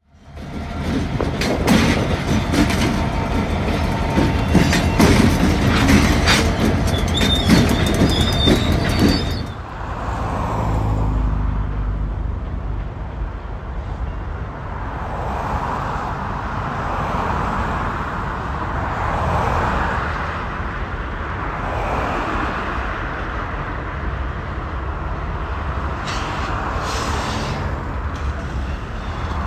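Canadian Pacific GP20C-ECO diesel locomotives and freight cars passing close at speed: a loud rumble with rapid wheel clicks over the rail joints and a brief high wheel squeal near the end of the pass. After a sudden change about nine seconds in, a quieter, steady rush of road traffic with slow swells.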